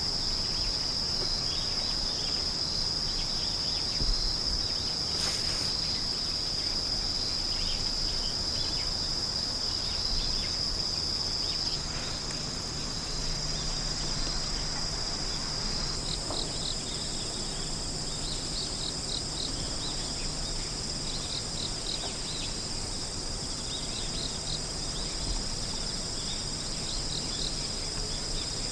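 A chorus of singing crickets and other insects: one continuous high trill, joined just past halfway by another insect's quick, repeated high chirps.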